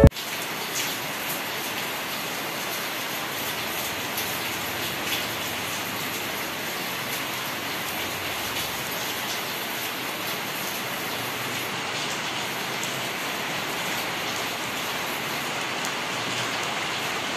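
Steady rain falling: an even hiss with a few faint drip ticks here and there.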